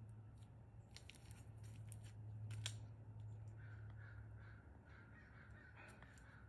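Faint outdoor background: a low steady hum with a few soft clicks, and a faint drawn-out bird call in the second half.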